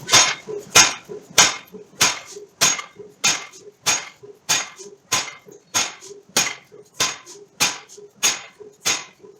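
Forging hammer striking steel in a steady rhythm, about one and a half blows a second, each blow a sharp metallic impact with a short ring.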